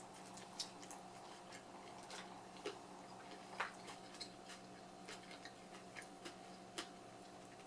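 Faint chewing of a mouthful of pizza: scattered soft clicks and mouth smacks at uneven intervals, over a steady faint hum.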